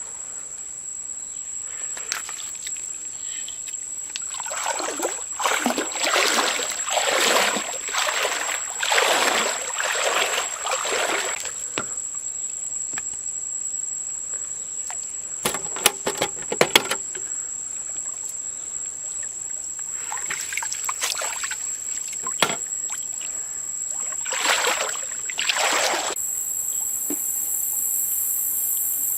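Water splashing and sloshing in repeated surges lasting a few seconds each, with a short cluster of sharp clicks about halfway through. Crickets start chirping near the end.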